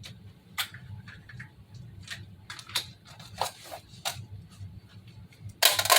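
Scattered clicks and knocks of plastic airsoft gear being handled with gloved hands, with a louder cluster of clicks near the end.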